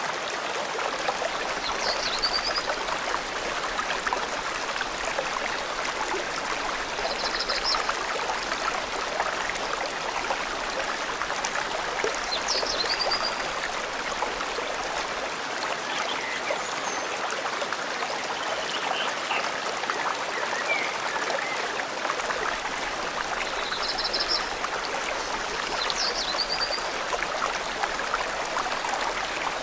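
Forest stream flowing steadily, with small birds giving short high chirps now and then, about half a dozen times.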